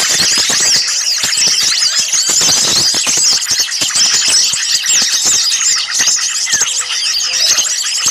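A dense, noisy chorus of many small songbirds calling at once, quick high-pitched chirps and chatters overlapping without a break, with a thin trill early on. It is the agitated, alarm-like calling used in a bird-lure recording to draw small birds in.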